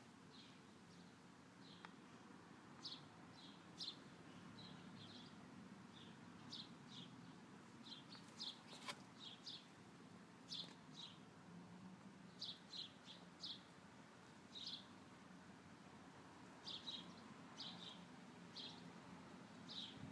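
A small wild bird chirping faintly: short high chirps, often in quick twos and threes, scattered irregularly.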